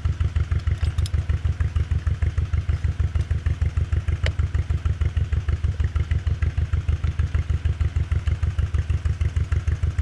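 An engine idling with a steady, even low pulse. There is a single sharp click about four seconds in.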